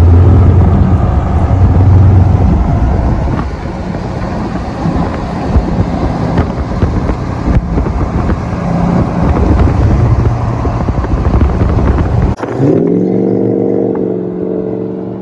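Chevy Silverado's straight-piped exhaust, its mufflers deleted, running loud and deep with the engine note rising and falling. About twelve seconds in, the sound cuts off abruptly and gives way to a steadier, higher pitched drone.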